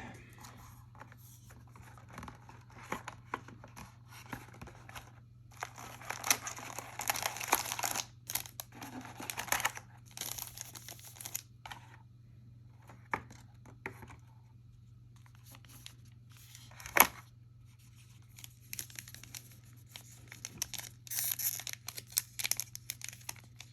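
Plastic wrapping on a trading-card hobby box being torn and crinkled in irregular bursts, with one sharp click partway through.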